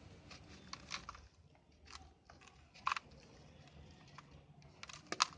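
Brown dirt shapes crumbling with irregular crackles and crunches, sharper crunches coming about a second apart and again near the end.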